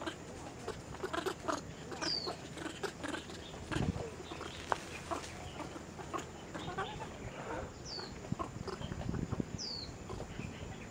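A bird gives a short, high, falling call, once about two seconds in and twice near the end, over a steady scatter of small clicks and rustles. A low rumble swells briefly around four seconds in and again near nine seconds.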